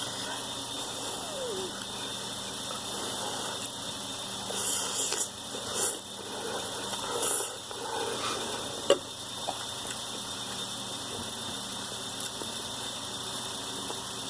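Ramen noodles being eaten close to the microphone over a steady hiss: a few short eating noises in the middle and one sharp click about nine seconds in, likely a utensil against the bowl.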